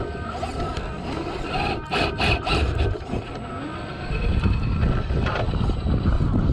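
Traxxas TRX-4 RC crawler working over wet rock: its motor whine rises and falls while the tyres and chassis scrape and grind on the stone, with a burst of sharp scraping about two seconds in. A heavier low rumble joins from about four seconds in.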